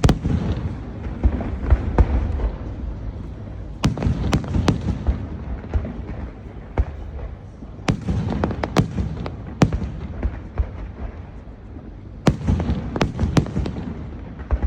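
Aerial fireworks bursting in loud volleys of sharp bangs and cracks, a new cluster about every four seconds, each followed by a low rumble and crackle.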